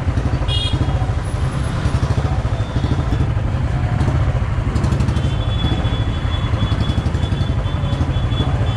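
Motorcycle engine running at low speed in slow, stop-go traffic, a steady low pulsing beat.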